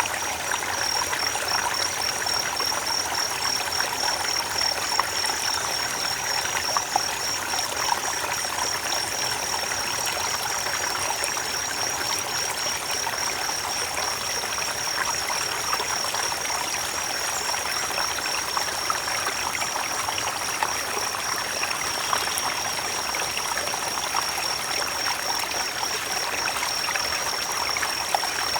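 Creek water running and trickling over stones, a steady splashing rush with small bubbling crackles. A continuous high, rapidly pulsing tone sits above it throughout.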